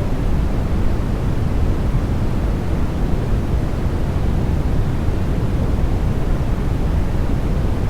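Continuous white noise for baby sleep: a steady, unchanging rush of noise, weighted toward the deep end, with nothing else in it.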